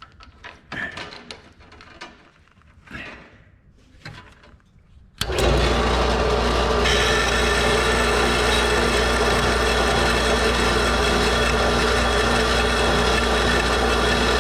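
Metal-cutting bandsaw switched on about five seconds in, its motor and blade then running steadily while cutting a piece of metal clamped in its vise. Before it starts there are light clicks and rustles of the piece being handled.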